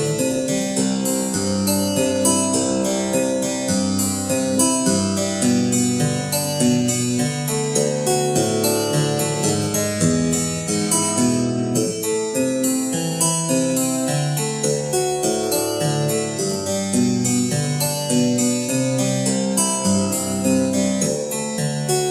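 Harpsichord playing a continuous stream of plucked notes, with bass notes under chords and melody.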